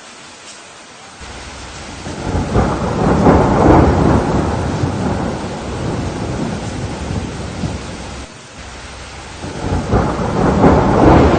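Steady rain with thunder: a rumble builds about a second in, swells and slowly fades, then a second roll of thunder rises near the end.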